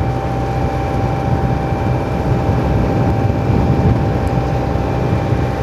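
Tour boat's engine running steadily underway, a constant low drone with a steady whine on top.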